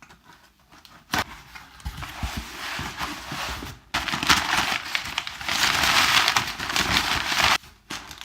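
A package being opened by hand: one sharp click about a second in, then packaging crinkling and rustling, louder in the second half, stopping abruptly near the end.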